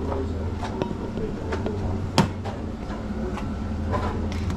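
Café counter sounds: a steady low machine hum under sharp clinks and knocks of cups and equipment, the loudest about two seconds in, with faint voices in the background.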